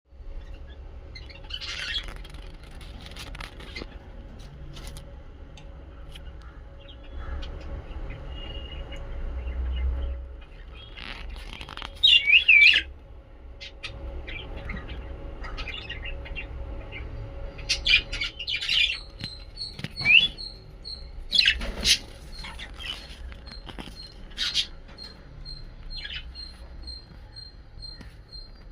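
Lovebirds chirping and squawking in short, scattered calls, with several loud, shrill bursts. In the second half a faint high peep repeats about twice a second.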